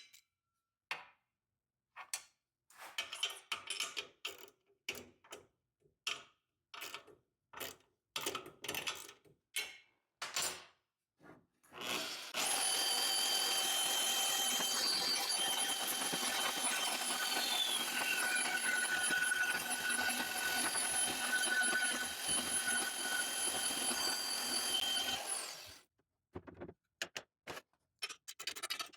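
Clicks and knocks of metal parts being handled for about twelve seconds. Then a portable bandsaw runs for about thirteen seconds, cutting a pie cut from exhaust tubing in a pivoting jig: a steady whine with several tones and one tone falling midway. It stops abruptly and a few more clicks follow.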